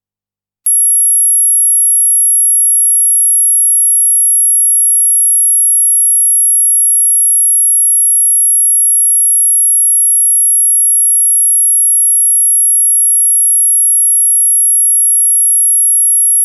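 A single steady, very high-pitched pure electronic tone that starts abruptly just under a second in and cuts off suddenly at the end. It is a pet-irritating tone billed as ultrasound for cats and dogs, though its pitch is within human hearing.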